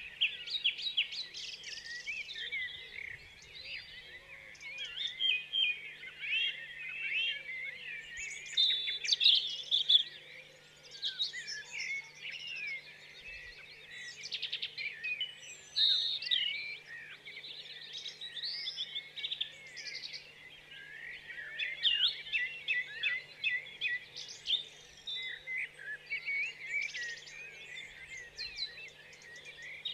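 Birds chirping throughout, many short calls and quick rising and falling notes overlapping, over a faint steady low hum.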